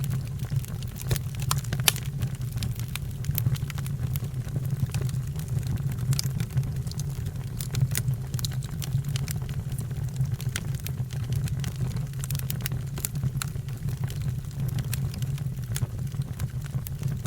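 Fire crackling, with frequent sharp irregular pops over a steady low rumble.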